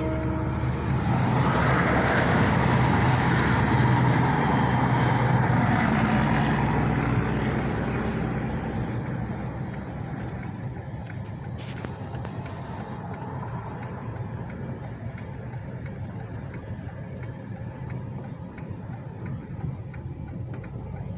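A vehicle passing close by: its noise swells over the first couple of seconds, holds, then fades from about eight seconds in, over a steady low engine hum.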